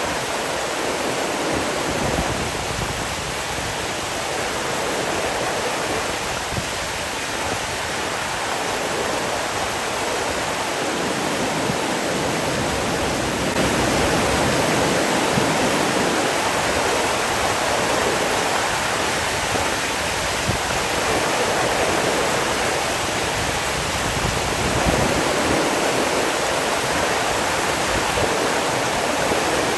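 Water rushing steadily, an even hiss with a low rumble that swells and eases.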